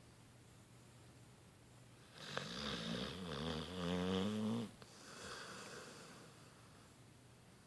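Sleeping beagle-bloodhound dog snoring: one loud, wavering, pitched snore on the in-breath about two seconds in, lasting about two and a half seconds, followed by a softer breathy out-breath.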